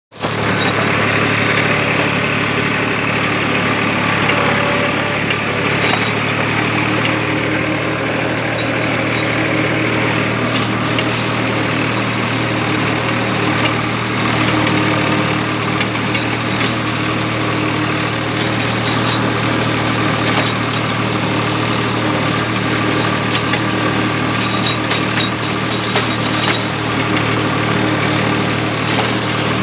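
Swaraj 735 tractor's three-cylinder diesel engine running steadily, with scattered light rattling clicks over it.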